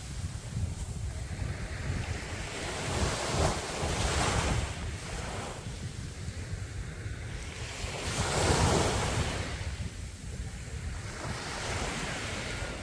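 Sea waves breaking and washing up the shore, the surf swelling louder twice, about a third of the way in and again past the middle, over a steady low wind rumble on the microphone.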